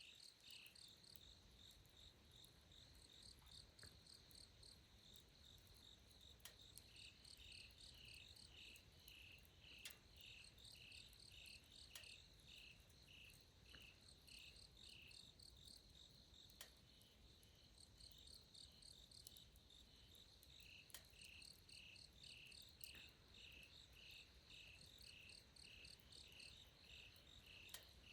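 Crickets chirping, faint. One keeps a steady high pulsing trill, while another sings runs of lower chirps about three a second that pause midway and then resume. A few faint clicks fall in between.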